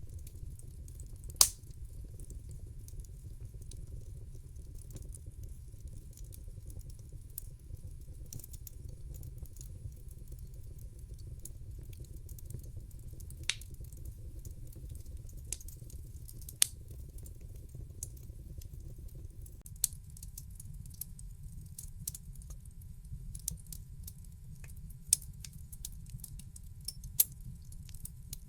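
Wood fire in a fireplace crackling: scattered sharp pops and snaps over a steady low rumble. One loud pop comes about a second and a half in, and the pops come more often in the last third.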